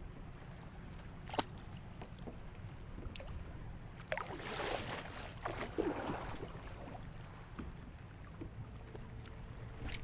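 Water sloshing and splashing against a kayak, with a couple of sharp clicks and a brief burst of splashing about four seconds in, over a low wind rumble on the microphone.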